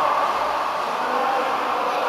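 Steady background din of a water polo game in progress: a noisy wash of sound with faint, indistinct voices in it.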